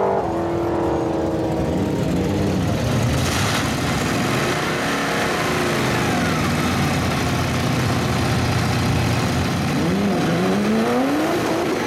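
A car pulling away hard at the start, then a second-generation Chevrolet Camaro Z28's V8 revving up and down through a burnout, its rear tyres spinning. The revs sweep sharply upward near the end.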